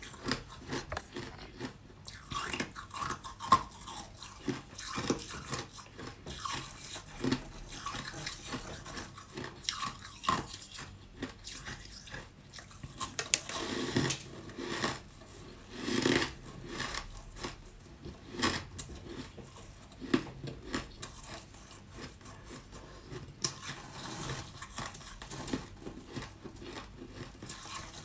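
A person biting and chewing ice close to the microphone: repeated irregular crunches and crackles as the pieces break between the teeth.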